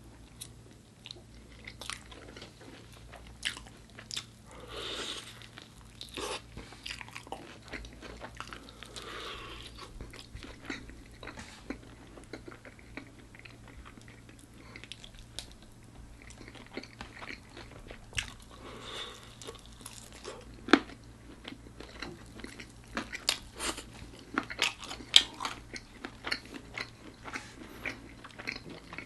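Close-miked crunching and chewing of crispy bone-in chicken, with crackling bites throughout; the sharpest, loudest crunches come in the last third.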